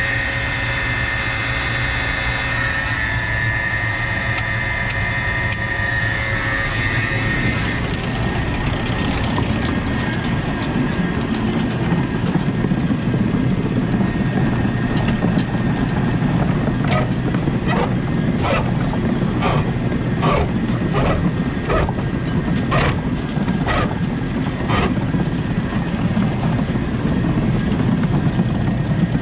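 Tractor running an old feed mixer. A steady whine for the first several seconds gives way to a rougher low rumble, with a run of sharp clanks through the middle.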